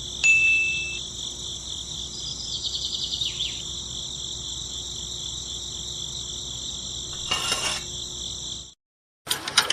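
Crickets chirping in a steady, high continuous trill, which cuts off about nine seconds in. A rapid mechanical rattle starts just before the end.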